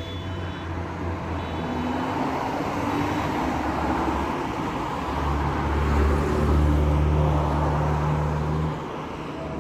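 A loud, low droning hum with a rushing noise over it, coming from the sky. It swells about five seconds in and drops off suddenly shortly before the end. The filmer cannot identify it and takes it for a strange sky noise.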